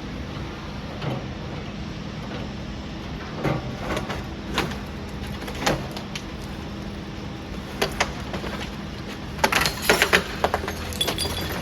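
Demolition excavator's diesel engine running steadily, with scattered knocks and clatters of masonry, and a quick run of louder knocks about nine and a half seconds in.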